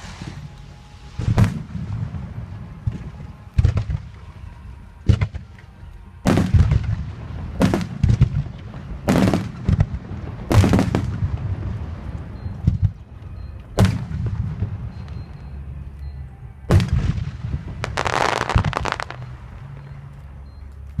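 Aerial fireworks going off in a show: about ten sharp bangs one to three seconds apart, each trailing off in a rumble, with a longer crackling burst near the end.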